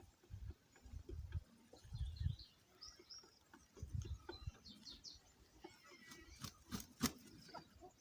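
Local free-range chickens calling faintly, with short high chirps in the middle and a few sharp clicks near the end, over repeated low rumbles.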